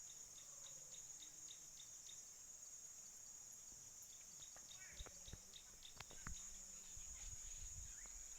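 Faint steady high-pitched insect drone, with short high calls of a common drongo scattered through it.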